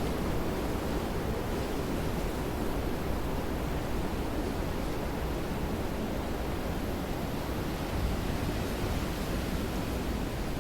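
Steady rain, an even hiss with a low rumble beneath it that holds level throughout.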